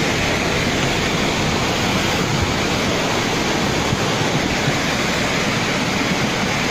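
Floodwater rushing, a steady even roar.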